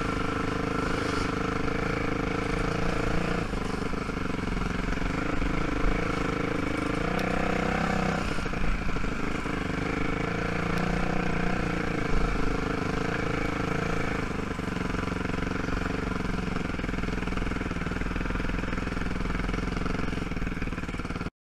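ATV (quad) engine running at low speed on a dirt trail, its pitch rising and falling a little with the throttle, with a few knocks and rattles over the ground. The sound cuts off abruptly near the end.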